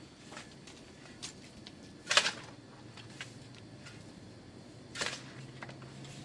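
Occasional knocks and clinks of pots and utensils being handled, the loudest about two seconds in and another about five seconds in.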